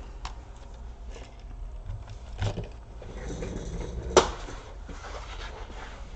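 A laptop being turned over and set down on a work surface: light handling noise, a dull bump about two and a half seconds in and a sharper knock about four seconds in.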